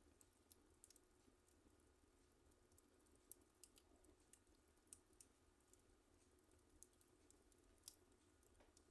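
Wood fire in a fireplace crackling faintly: irregular sharp pops and snaps, a few of them louder than the rest.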